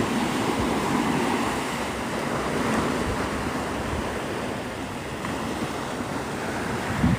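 Gulf of Mexico surf washing onto the beach, swelling and easing, with wind buffeting the microphone.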